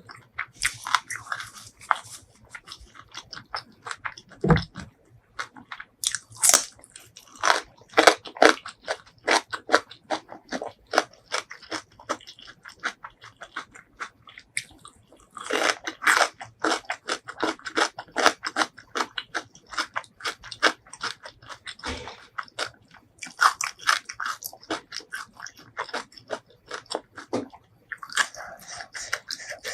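Close-miked eating: crunchy bites and quick, steady chewing, in runs broken by a few short pauses.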